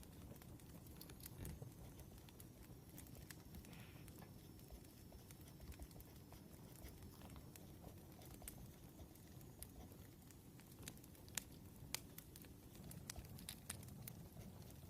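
Faint wood fire crackling: scattered sharp pops and snaps over a low rumble, with two louder pops near the end.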